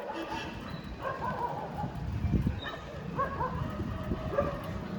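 Dogs barking and yelping in short bursts over a steady low rumble.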